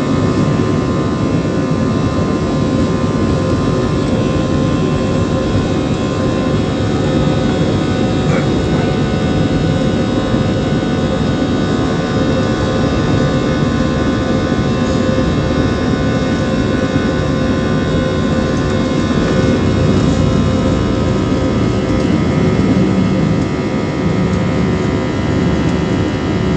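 Airbus A320 jet engines running steadily: a constant loud rush with several steady tones over it, holding level without rising or falling.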